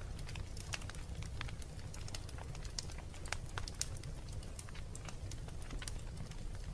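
Wood fire burning in a fireplace, crackling with many sharp, irregular pops over a low steady rumble.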